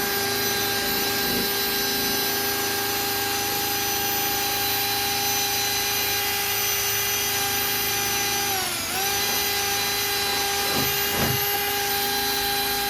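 Electric power tool running at a steady high-pitched whine. About nine seconds in it briefly drops in pitch as if bogging under load, then speeds back up.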